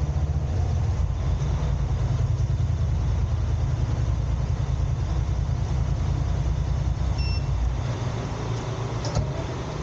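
Steady low rumble of a car driving on city roads, easing slightly near the end. A brief short beep sounds about seven seconds in, and a single click comes shortly after.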